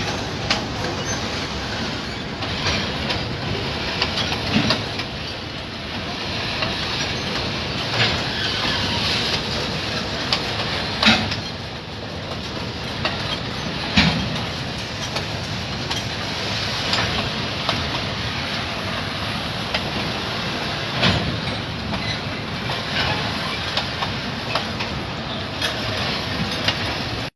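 Freight train rolling past, a steady rumble of wagons with irregular clacks of wheels over rail joints.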